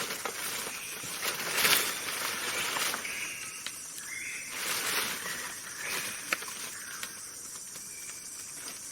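Outdoor natural background of insects with steady high hissing, broken by brief rustling surges early on, a few short high calls and a sharp click about six seconds in.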